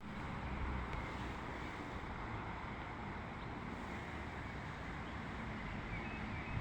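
Wind buffeting the microphone over a steady outdoor rush of noise, with a few faint short high chirps near the end.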